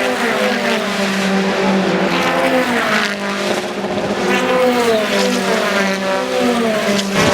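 BTCC touring cars' turbocharged four-cylinder engines racing past, several cars in turn, their notes rising and dropping as they accelerate and shift gear.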